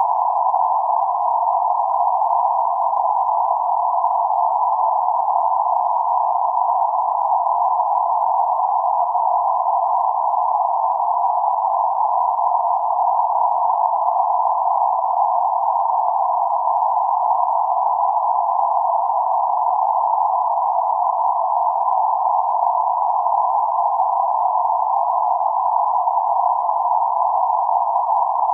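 Steady band-limited noise centred on about 848 Hz, a hiss confined to the midrange with no highs or lows, unchanging throughout.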